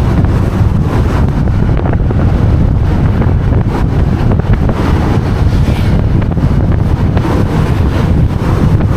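Wind buffeting the microphone of a camera on a moving motorbike: a loud, steady, low rumble with road noise underneath.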